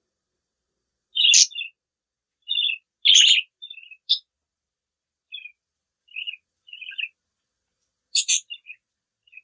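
Pet budgerigars chirping: a string of short, bright chirps and warbles with silent gaps between them, the loudest about a second in, around three seconds in and near the end.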